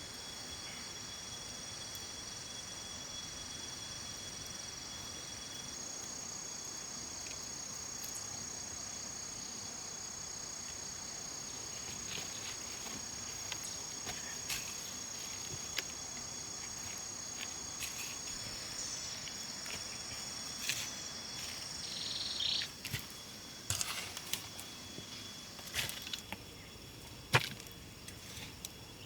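Steady high-pitched insect chorus with several insects holding different pitches, one dropping out about two-thirds of the way in. Toward the end, scattered sharp clicks and knocks come through.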